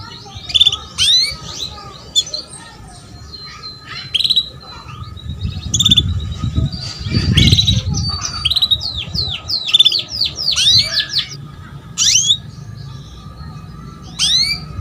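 Female canary calling in quick clusters of short sweeping chirps, the contact calls used to lure a male canary into singing. A low rumble runs under the calls in the middle.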